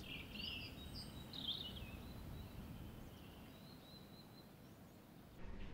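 Faint outdoor ambience, a low steady background noise, with a few small birds chirping in the first two seconds and again around three seconds in. Near the end it changes to a duller background with the high sounds gone.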